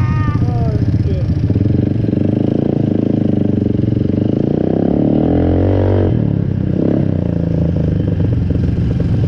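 ATV (four-wheeler) engine running, revving up and back down once about five seconds in, with a voice briefly over it at the start.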